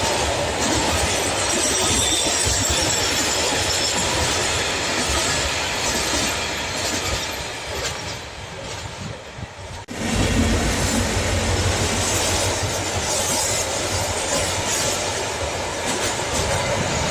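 Freight train wagons rolling past, their wheels rumbling and clattering on the rails. The sound thins out about eight seconds in, then comes back suddenly at full strength about ten seconds in.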